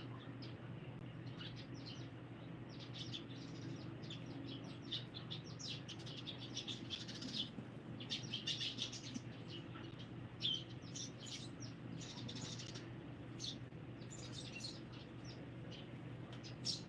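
Small birds chirping: many short, high chirps in quick clusters, busiest in the middle stretch, over a steady low hum.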